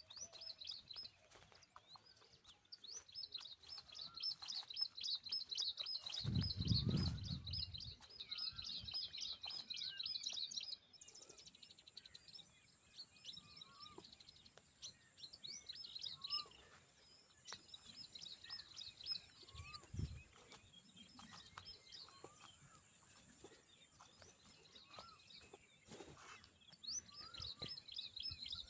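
Tailorbird nestlings begging, a rapid stream of thin high-pitched chirps in repeated bursts, with scattered lower single chirps. A steady high hiss joins about a third of the way through, and there is a brief low rumble early on.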